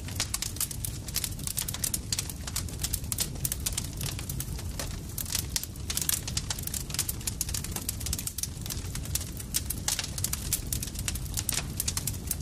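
Campfire crackling: dense, irregular pops and snaps over a steady low rumble from the burning wood.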